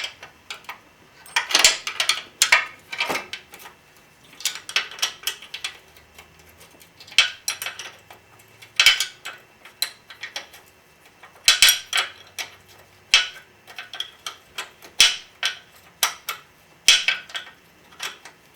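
Steel wrenches clinking and ticking against the nut and bolt in short bursts every second or two as a 17 mm nut on the motorcycle's suspension linkage is turned loose.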